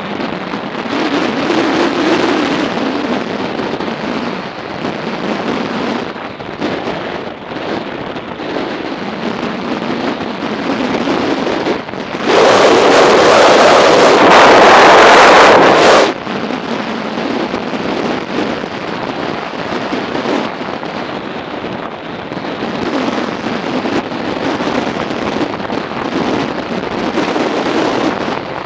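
Strong wind buffeting the microphone of a motorcycle riding at speed, over engine and road noise. About twelve seconds in, a much louder rush of noise lasts around four seconds, then cuts off suddenly.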